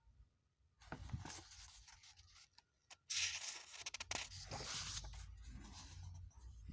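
Rustling and scraping noises, starting about a second in and growing louder from about three seconds in, with a few sharp clicks.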